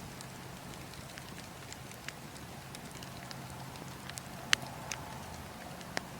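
Campfire crackling: scattered sharp pops and snaps over a steady low background of burning, with the loudest pops about four and a half seconds in and again near the end.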